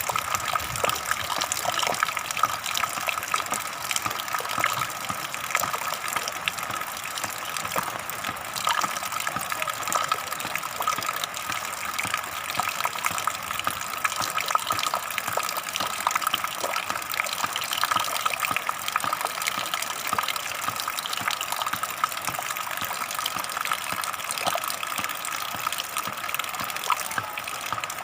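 Water flowing and gushing steadily, a constant rushing splash with no pauses.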